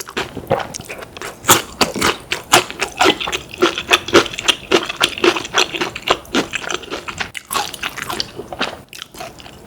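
Close-miked eating: wet chewing and smacking of saucy food, with crunches and a rapid run of short mouth clicks.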